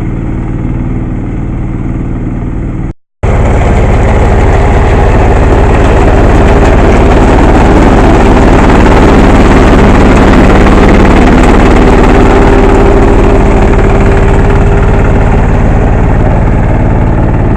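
Mini crawler combine harvester's engine running steadily. It drops out suddenly for a moment about three seconds in, then comes back louder.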